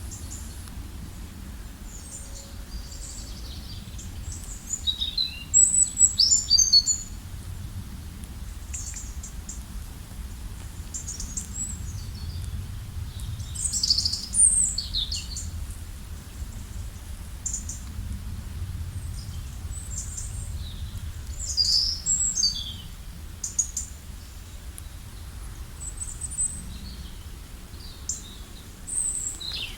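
Songbirds chirping and singing in short, high, sliding calls, several overlapping at times, over a low steady background rumble.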